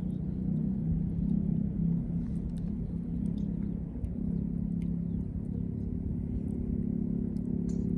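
Wood fire crackling with scattered small pops over a steady low hum.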